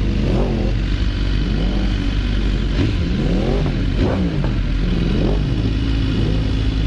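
Several motorcycle engines revving at once over a steady low rumble of idling bikes, their pitches rising and falling repeatedly and overlapping.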